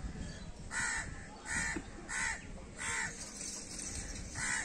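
A bird giving five short, harsh cawing calls, spaced about half a second to a second and a half apart.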